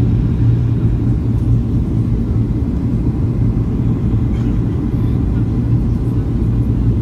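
Steady, low rumble of a Boeing 737-800 in flight, heard from inside the cabin: the drone of its CFM56-7B jet engines and the airflow over the fuselage, with a steady hum in the bass.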